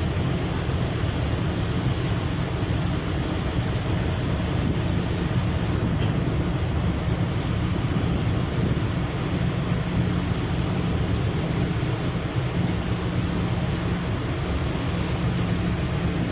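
Steady wind and ocean surf noise, with wind rumbling on the microphone.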